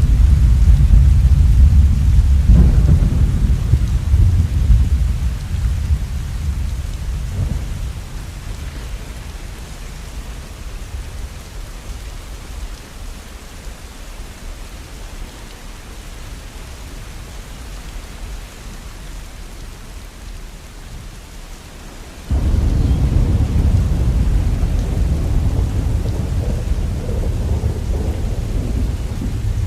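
Steady rain with rolling thunder. A long low rumble of thunder dies away over the first ten seconds, leaving only the rain. A fresh rumble starts suddenly about 22 seconds in and carries on.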